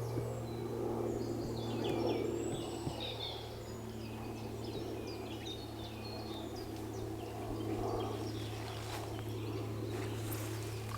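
Small birds chirping and singing in short calls, over a steady low hum.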